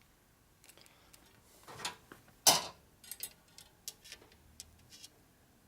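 Workshop handling noises as a metal line is worked by hand: one sharp clack about two and a half seconds in, followed by a string of light metallic ticks and clicks.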